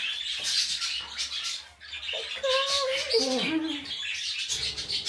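Birds chirping and squawking in the background, a dense high-pitched chatter. About two and a half seconds in comes one short vocal sound that falls and wavers in pitch.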